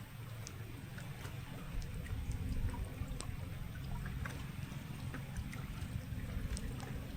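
Water gurgling and lapping in a low steady rumble, with scattered small ticks like drips.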